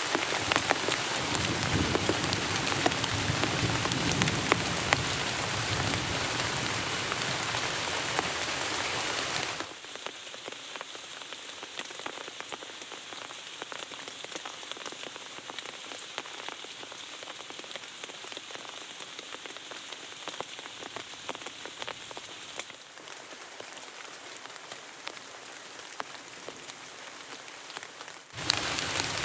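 Heavy rain falling as a steady hiss dotted with individual drop impacts. About a third of the way in it drops suddenly to a softer patter, and it is loud again just before the end.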